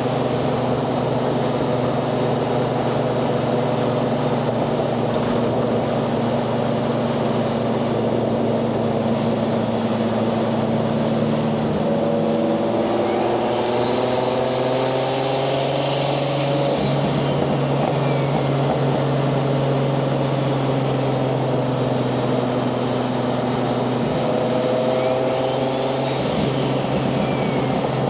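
Single-turbo 1JZ-GTE VVTi 2.5-litre inline-six in a Nissan 240SX cruising at a steady drone. A high turbo whistle rises and falls as the throttle comes on and off: a longer one about halfway through and a shorter one near the end.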